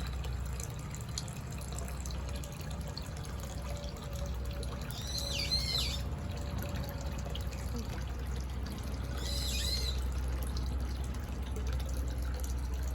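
Water trickling steadily, with a songbird singing two short phrases of arching high notes, about five seconds in and again near ten seconds.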